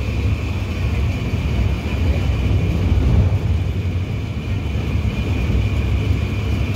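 Diesel passenger train running at speed, heard from on board: a steady low rumble of the wheels on the track, with a thin steady high-pitched tone over it.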